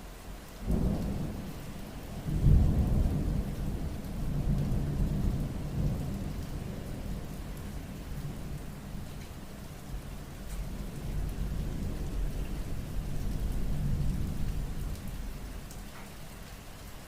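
Thunder rolling over steady rain: a sudden first clap under a second in, a louder crack about two and a half seconds in, then a long low rumble that swells and ebbs before dying away near the end.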